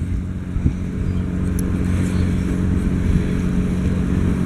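Ro-ro ferry's diesel engines running as it manoeuvres stern-first to the dock: a steady low drone that swells slightly.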